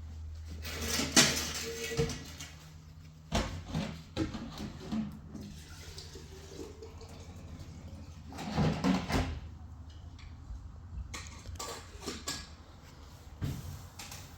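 Water splashing and dishes or pots knocking in irregular bursts, over a steady low hum.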